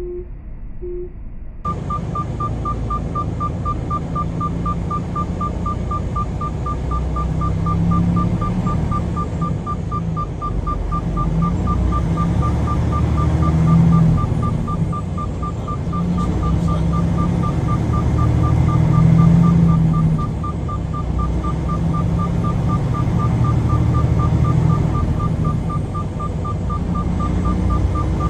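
Truck cab rumble while driving, with engine and road noise rising and falling. A steady, rapid electronic beep sounds about four times a second throughout. The rumble comes in abruptly about two seconds in.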